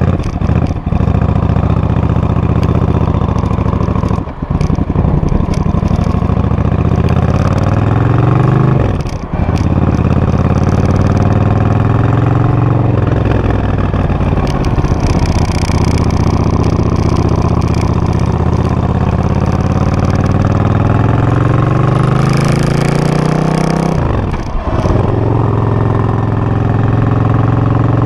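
Suzuki VS800 Intruder's V-twin engine running through its exhaust, idling and revved up several times, its pitch rising and then dropping back.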